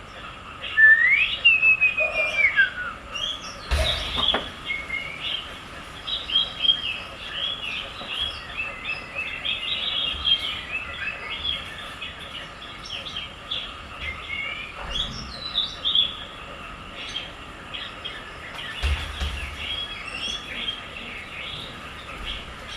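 Small birds chirping and calling continuously: many short, quick chirps, with a whistled call that rises and then slides down about a second in. A couple of brief knocks come through, one about four seconds in and one near the end.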